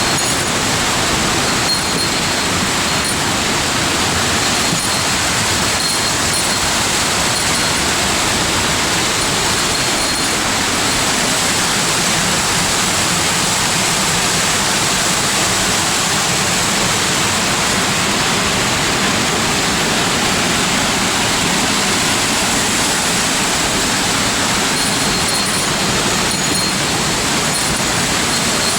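A waterfall's water rushing, loud and steady throughout.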